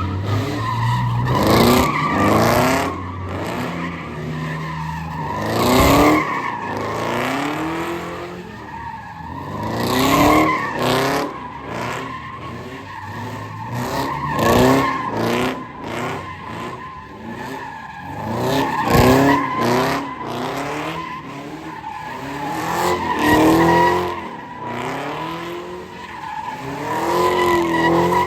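Car engines revving up and down again and again, with tires squealing in long skids as cars spin on the pavement.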